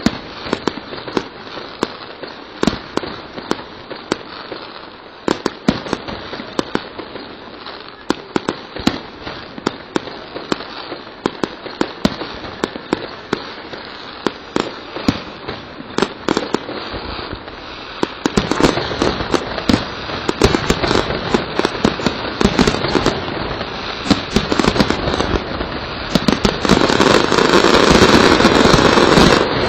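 Aerial fireworks display: a steady run of sharp bangs and crackles from bursting shells. The bangs come thicker from a little past the middle and merge into a loud, continuous barrage near the end.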